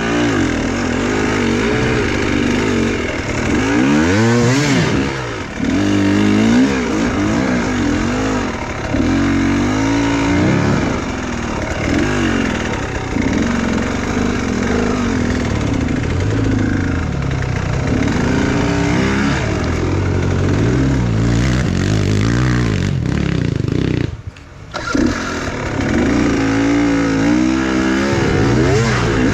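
Enduro motorcycle engine revving up and down constantly under hard off-road riding, its pitch rising and falling every second or two. Near the end the engine note drops away briefly, then picks up again.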